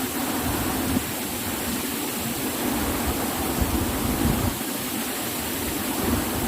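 Tunan Waterfall's falling water: a steady rushing noise, with an uneven low rumble underneath.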